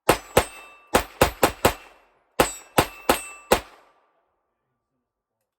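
Ten shots from a .22 LR semi-automatic target pistol, in three quick strings of two, four and four, each followed by a short metallic ring from bullets striking steel plates.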